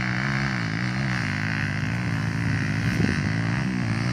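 Trail motorcycle engine revving unevenly, its pitch rising and falling as the throttle is worked.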